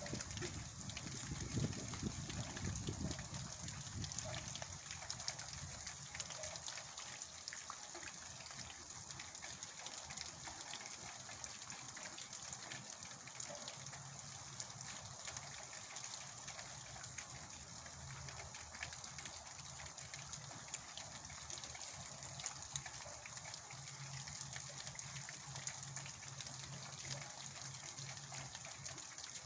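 Heavy rain falling steadily, a dense hiss of many small drop ticks, with a low rumble in the first few seconds.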